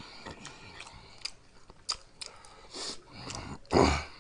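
Close-miked chewing of spicy noodles: soft wet mouth clicks and smacks, then a loud, short, breathy throat sound a little before the end.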